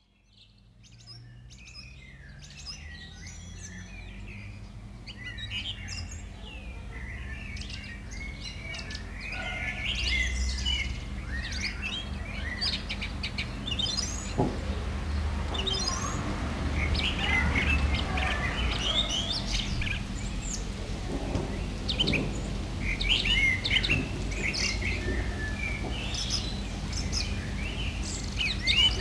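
Many birds chirping and trilling over a steady low hum, fading in from silence over the first several seconds.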